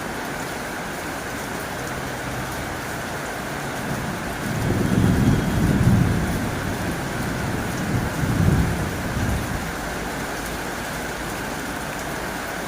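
Heavy rain drumming steadily on a tin roof, with two low rumbles of thunder swelling up about five and eight seconds in.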